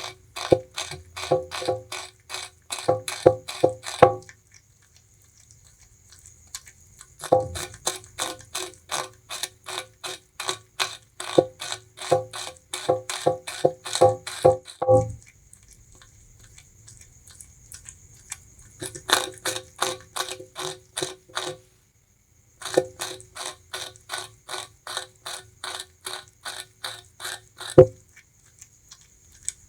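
Bamboo rat gnawing sugarcane in runs of rapid, crisp crunches, about five a second, broken by pauses of a few seconds. A single louder snap comes near the end.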